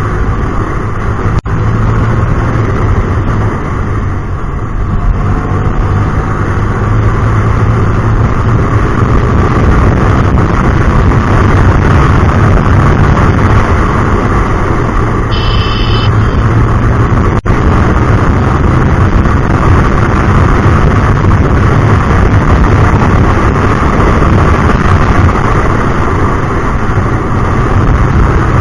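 Hyosung GT250R's 250 cc V-twin with an aftermarket Solfer exhaust running steadily under way, a loud continuous mix of engine and road noise. A short high-pitched tone sounds about halfway through.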